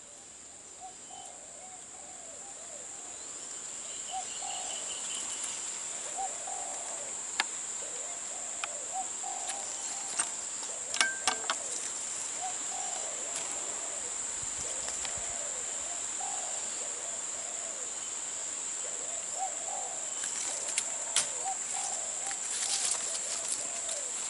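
Spotted doves cooing over and over in repeated phrases, growing louder over the first few seconds, over a steady high drone of insects. A few sharp clicks come around the middle and near the end.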